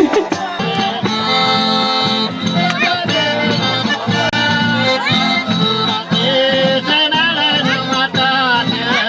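Brazilian rural folk music led by an eight-bass button accordion (oito baixos), playing held chords over a steady, repeating bass rhythm.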